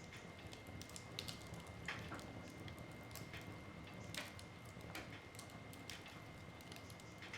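Wood fire crackling in a fireplace: irregular sharp pops and snaps of burning logs, a few seconds apart, over a low, soft rush of the flames.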